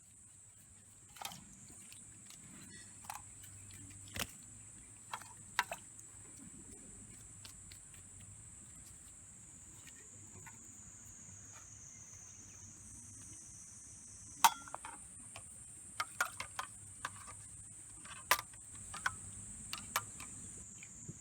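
Steady high-pitched chorus of insects, with scattered sharp clicks and taps; a few louder taps come in the second half.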